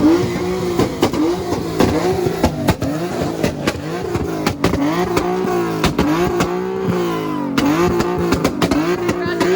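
A car's engine revved again and again, each rev rising in pitch and falling back more than once a second, with sharp crackles in between.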